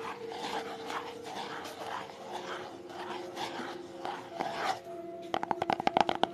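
ASMR triggers: rhythmic scratching or rubbing strokes, about three a second, then from about five seconds in a fast run of rapid tapping.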